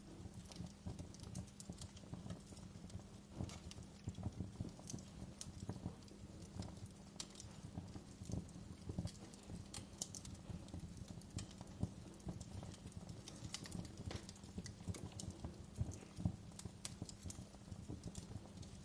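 Wood fire burning in a fireplace, crackling with many irregular sharp pops over a low, steady rumble of the flames.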